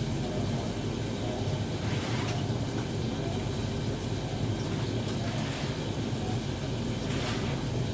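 A steady low mechanical rumble, with a few faint brief noises about two seconds in and near the end.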